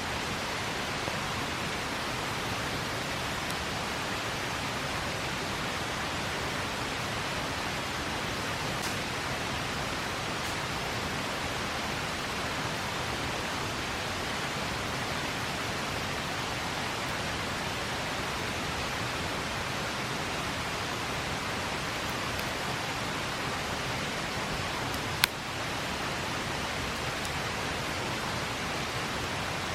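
Steady rush of river water, with a few faint crackles and one sharp pop from a campfire near the end.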